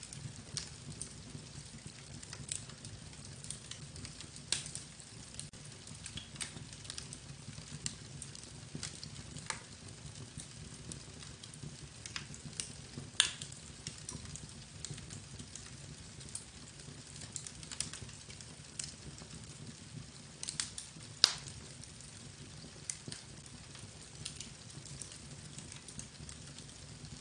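Scattered sharp crackles and clicks at irregular intervals, with two louder snaps, one about halfway and one about three quarters of the way in, over a steady low hum.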